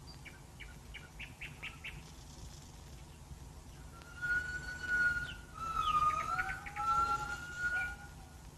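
Jungle birds calling: a quick run of short chirps, then about four seconds in, long, steady whistled notes that dip and glide, with more chirps among them, over a low steady hum.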